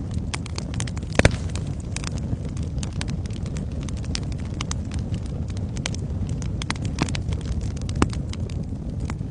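Wood fire in a fireplace crackling: a steady low rumble of flames with frequent irregular sharp pops, the loudest about a second in.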